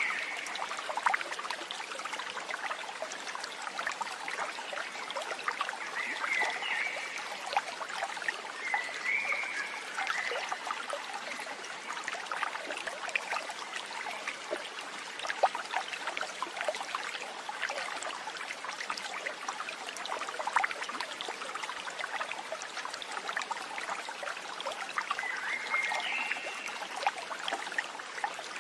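Water trickling and babbling in a stream, a steady splashy flow, with a few brief high chirps over it.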